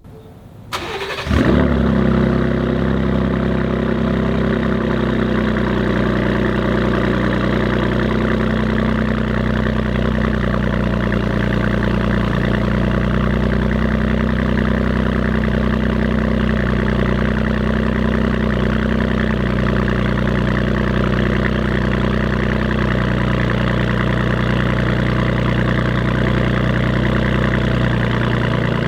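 Gen 2 Ford Raptor's twin-turbo 3.5 L EcoBoost V6 cold-started: the starter cranks briefly and the engine catches about a second in, then settles into a steady idle.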